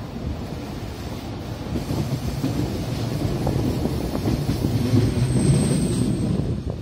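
Bernina railway train running on a curve, its wheels rumbling and clattering on the rails, louder from about two seconds in. A thin, high wheel squeal lasts about a second, around five seconds in.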